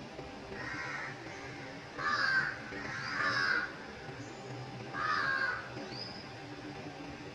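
A bird calling outdoors: four separate calls, each about half a second long, the second and third close together and the last after a short gap.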